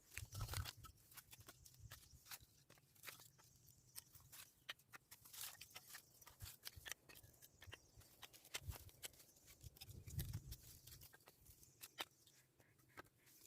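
Near silence, broken by faint, scattered small clicks and crackles at irregular intervals.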